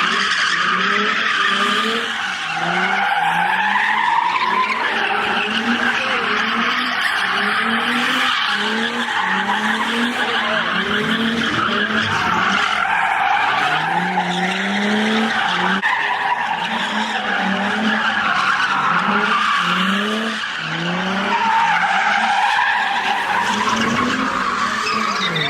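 A car doing donuts or a drift: its tyres screech without a break while the engine revs up and drops back in quick repeated surges.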